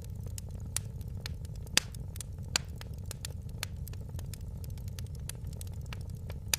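Wood fire crackling in a fireplace: a steady low rumble of burning with frequent sharp pops and snaps, the loudest about two seconds in.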